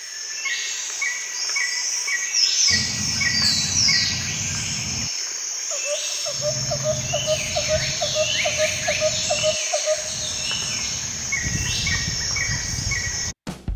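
Birds chirping and singing: many short, high, falling chirps and repeated short whistled notes, with a lower run of quick notes, about four a second, from about six to ten seconds in. A low background rumble cuts in and out abruptly several times.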